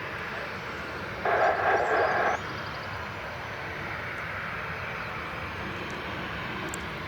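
Steady jet aircraft engine noise, with a short burst of air traffic control radio from a scanner a little over a second in.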